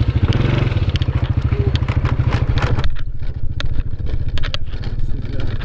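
Honda Dream motorcycle's small single-cylinder four-stroke engine running under way, a fast even pulsing, with scattered clicks and rattles. About three seconds in the higher hiss drops away while the engine pulsing carries on.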